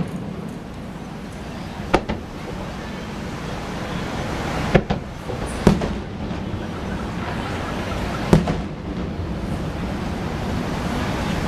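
Fireworks going off overhead: four sharp bangs at uneven gaps of one to three seconds, over a steady rushing background.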